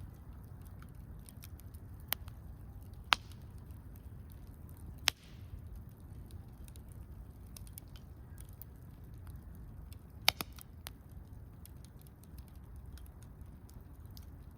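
Wood campfire crackling: a steady run of small ticks with a few sharp pops, the loudest about two, three, five and ten seconds in, over a low steady rumble.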